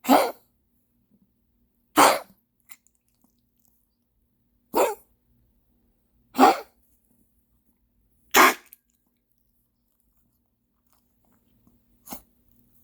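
A dog coughing: five short coughs about two seconds apart, then a fainter one after a longer pause.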